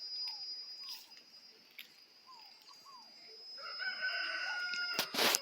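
A rooster crowing once, one long held call in the second half, with a few faint short bird chirps before it. A brief loud rustle of noise cuts in just before the end.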